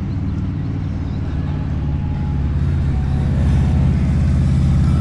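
A motor vehicle engine running close by, a low steady hum that grows louder over the last couple of seconds.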